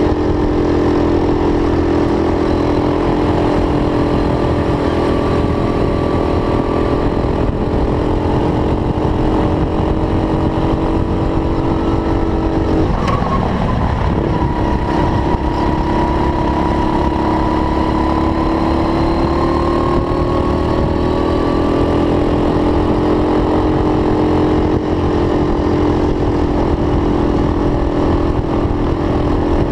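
Racing go-kart engine running hard, its pitch rising and falling slowly with the throttle. About halfway through the tone breaks up briefly, then picks up again, with a steady low rumble underneath.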